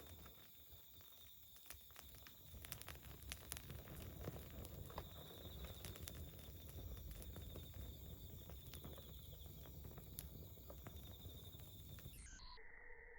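Campfire burning faintly, with scattered crackles and pops over a low rumble. Near the end it cuts off abruptly and a few steady tones take over.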